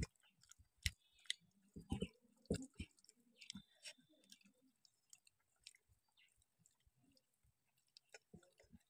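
Quiet chewing and mouth sounds of people eating a rice meal by hand, with short clicks scattered through, more of them in the first three seconds.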